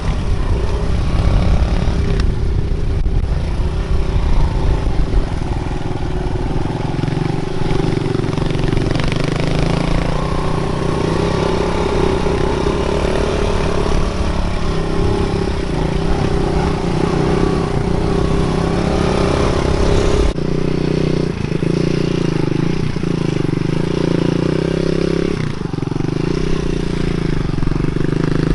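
Small four-stroke single-cylinder pit bike engine running at fairly steady revs as the bike is ridden, with a rough low rumble underneath. The sound changes abruptly about twenty seconds in.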